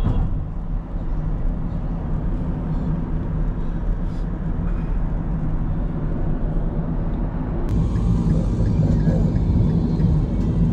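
Car driving at speed: a steady low rumble of road and engine noise, getting a little louder about eight seconds in.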